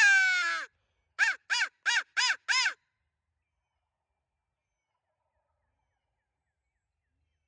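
Crow locator call blown by a turkey hunter: one long caw falling in pitch, then five short, quick caws. It is a call meant to make gobblers shock-gobble so they can be located.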